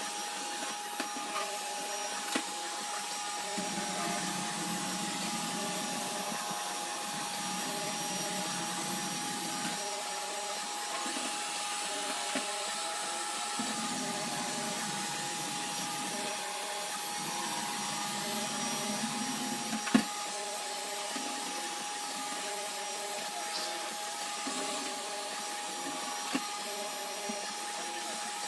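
iRobot Roomba robot vacuum running steadily, its motor giving a constant whine over the noise of the suction and brushes. There are a few small clicks and one sharp knock about twenty seconds in.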